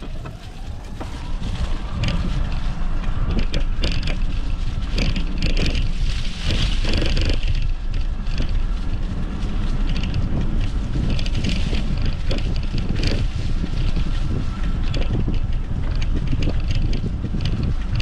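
E-bike riding over forest ground, with wind rumbling on the microphone and the tyres crunching and rattling over the rough trail. The sound builds up over the first couple of seconds, then stays steady.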